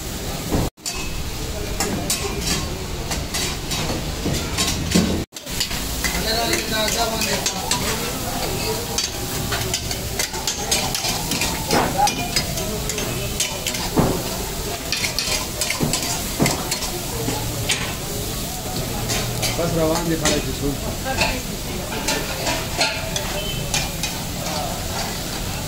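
Mutton karahi sizzling and frying in a row of karahi woks over open fires, with metal ladles scraping and clinking against the woks as the cooks stir. The sound cuts out briefly twice, about a second in and about five seconds in.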